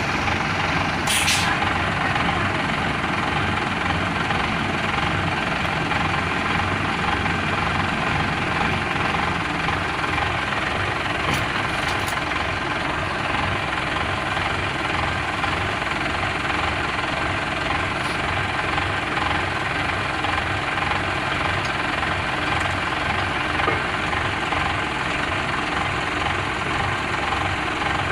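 A large engine running steadily, with a dense low rumble.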